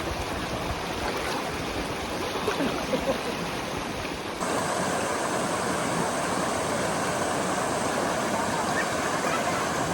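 Valley stream running, a steady rush of water. About four and a half seconds in it cuts abruptly to a slightly louder, brighter rush.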